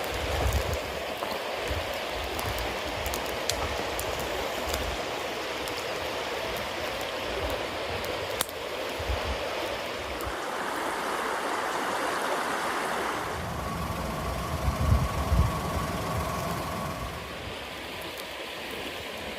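Bonfire of wet cedar leaves and damp firewood burning with a steady hiss and scattered sharp crackles. The hiss comes from the wet fuel.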